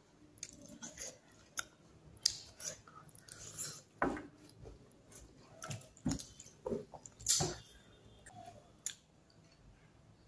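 Close-up eating sounds of a person eating fish curry and rice by hand: irregular chewing with short clicks and smacks every second or so.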